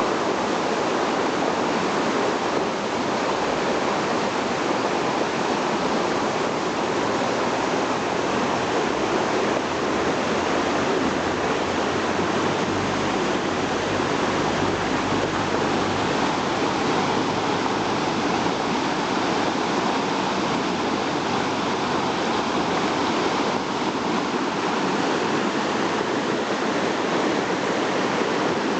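Annai River in flood after a typhoon, its muddy, swollen water rushing through a narrow channel with a steady roar.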